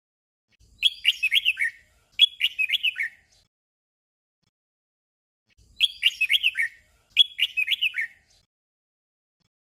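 Red-whiskered bulbul singing a short whistled song phrase twice in quick succession, the doubled style that bulbul keepers call a 'double'. The same pair of phrases comes again about five seconds later.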